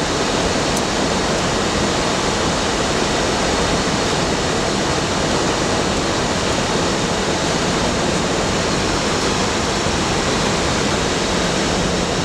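Steady rushing cockpit noise of an Airbus A320 in flight on approach, from airflow over the airframe and the cabin ventilation.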